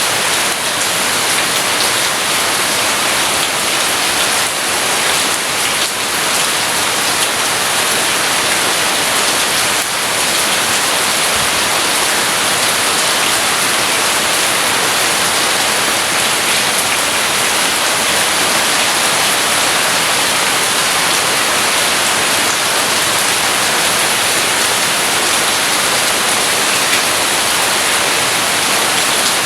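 Steady heavy rain, an even hiss without breaks.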